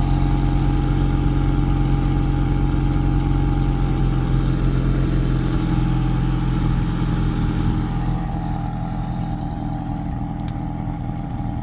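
1991 Pontiac Sunbird's GM four-cylinder engine idling steadily while warming up after a cold start in freezing weather. It drops a little in loudness about eight seconds in.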